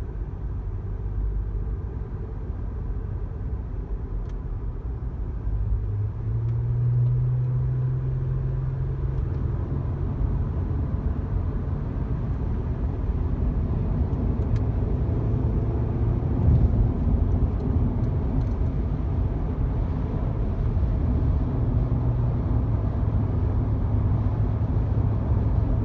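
Honda Odyssey minivan driving along: steady low engine and tyre rumble, with the engine hum getting louder from about six seconds in.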